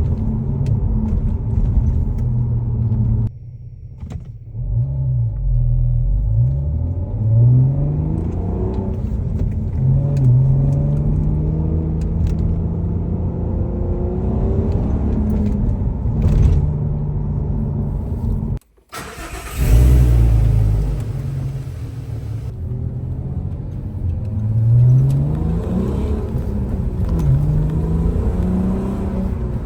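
Audi A3 3.2's VR6 engine through a sport exhaust with the middle silencer deleted, accelerating through the gears. The pitch rises and falls back several times, with steady cruising stretches between, and two brief breaks in the sound.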